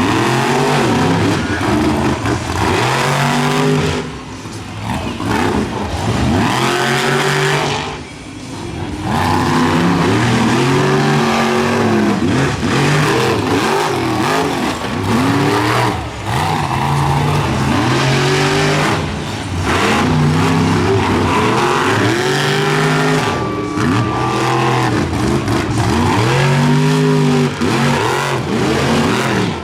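Monster truck engines revving hard during a race heat, the pitch climbing and dropping back every couple of seconds as the throttle is worked, with brief lulls about four and eight seconds in.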